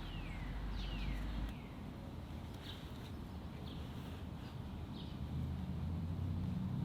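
Outdoor ambience with birds calling: two falling whistled calls in the first second or so, then a string of short chirps about once a second. A steady low rumble runs underneath and grows louder near the end.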